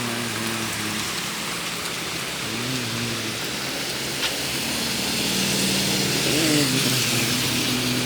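Heavy tropical rain falling steadily, swelling louder about five to seven seconds in. A faint low hum that rises and falls sits underneath.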